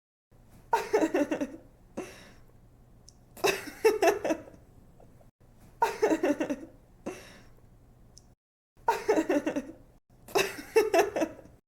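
A girl laughing in short giggling bursts of quick 'ha-ha' pulses, five main bursts with brief pauses between them. A faint low hum sits under the laughs, and it cuts off abruptly several times.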